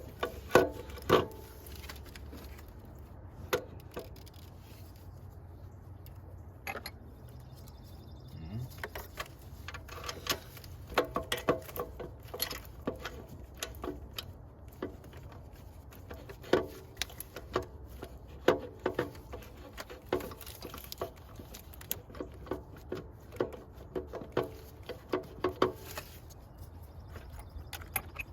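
Irregular metallic clicks, taps and clunks of a replacement alternator being worked into place in a car's engine bay and its mounting bolts being started by hand, coming in small bunches.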